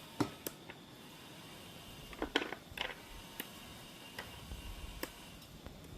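Scattered sharp taps and clicks of a knife on a cutting board as raw chicken is cut into pieces, with a few louder knocks about two and a half seconds in.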